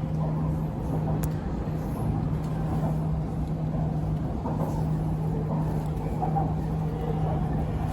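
Interior of an MRT Purple Line electric train running steadily between stations: a steady low hum over rolling rumble.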